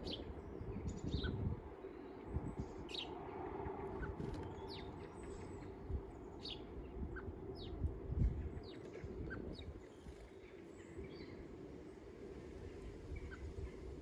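Small garden birds chirping: short, high, separate calls scattered throughout, over a steady low rumble. A soft low thump about eight seconds in.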